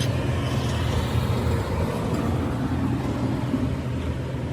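A machine running steadily with a low hum under a noisy haze.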